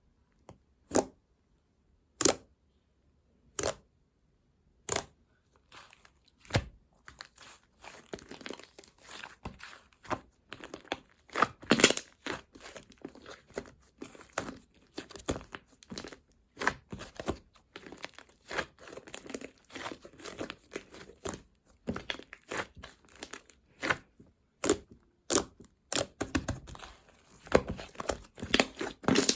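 Close-miked crinkling and tearing of a bubble gum wrapper: five separate sharp snaps, then steady irregular crackling from about seven seconds in.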